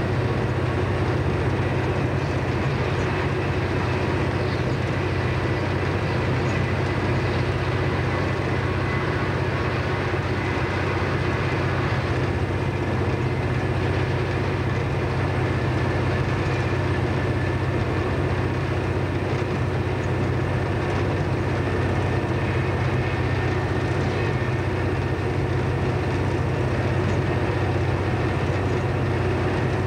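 Train running along the line, heard from inside the locomotive cab: a steady low engine drone with wheel-on-rail noise and a faint steady whine, holding constant speed throughout.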